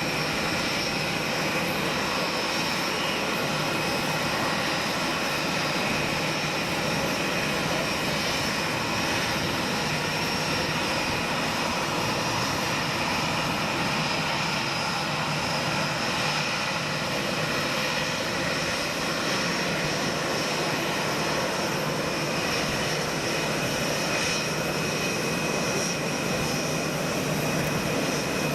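Jet engines of a Boeing 787-10 airliner running steadily: a continuous even rush with a steady high whine over it.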